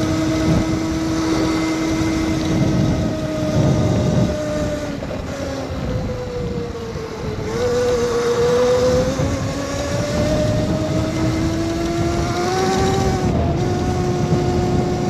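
Electric dirt bike's motor whining under way, its pitch holding steady, sagging lower about halfway through as the bike slows, then climbing again toward the end as it speeds up. A low rushing noise runs underneath.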